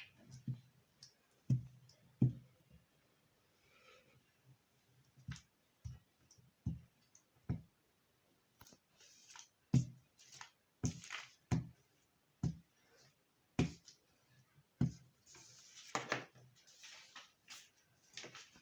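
Paper and craft tools being handled on a table: irregular taps and clicks, some with a dull knock, and a few short rustles of paper.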